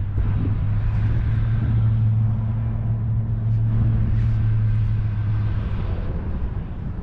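Motor vehicle engine running with a steady low hum that fades out about six seconds in.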